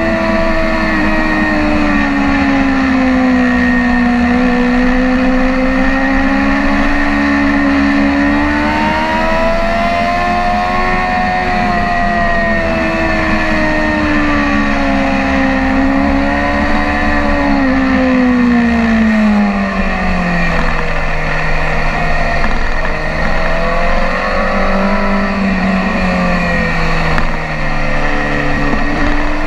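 BMW S1000RR's inline-four engine running hard on track, its pitch rising and falling smoothly with throttle and speed. Around twenty seconds in the revs drop lower, then climb a little again.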